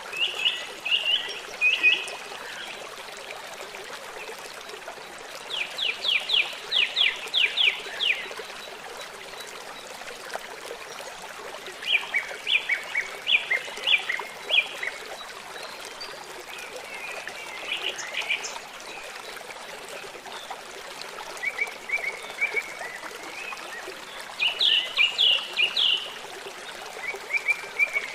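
A songbird singing short phrases of rapid repeated high notes, a phrase every few seconds, over the steady rush of running water.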